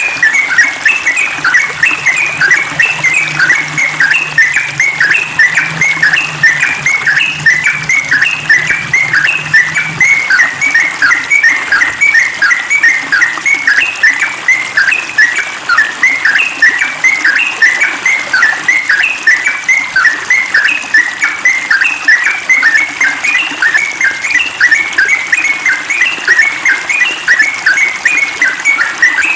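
Yellow-vented bulbul (trucukan) singing a rapid, unbroken string of short bubbly notes: the fast continuous 'ropel' song of a bird in full voice.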